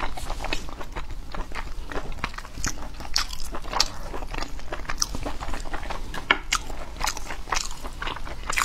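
Close-miked chewing and biting of food, a dense irregular run of clicks and crunches, several a second.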